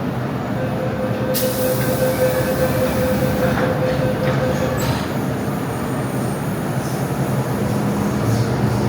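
MTR M-Train electric multiple unit pulling away from the station: steady running noise of motors and wheels on the rails, with a held tone for the first few seconds and a sudden hiss about a second and a half in.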